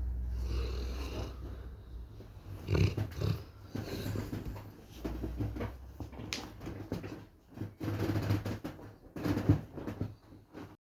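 Cane Corso dog snoring in low rumbling breaths that come in irregular bursts about every second or two.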